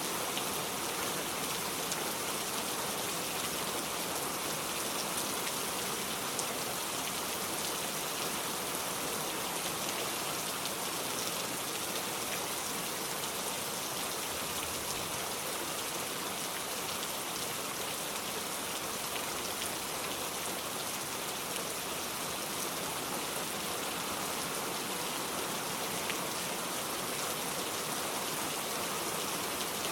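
Steady rain falling, an even hiss with scattered individual drops pattering.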